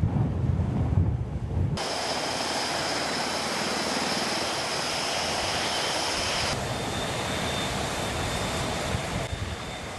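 Aircraft engine noise: a steady rushing with a thin high whine, its character changing abruptly about two seconds in and again about six and a half seconds in.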